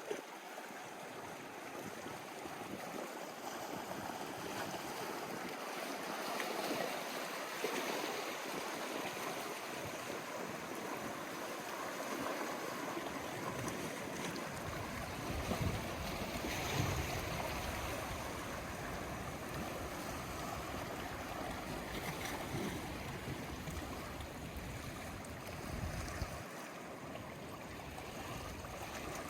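Sea waves washing against the shore: a steady wash that swells into louder surges every several seconds, the loudest a little past halfway.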